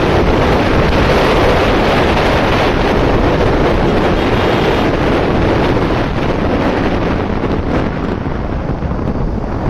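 Heavy wind noise on the microphone of a riding motorcycle: a loud, steady rush with no clear engine note, easing slightly near the end.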